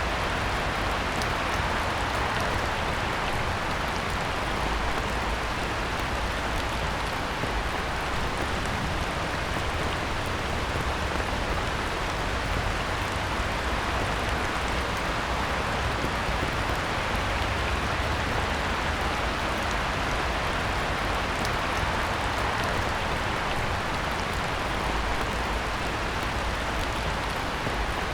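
Heavy rain pouring steadily onto a pond's surface, an even hiss with scattered individual drop splashes.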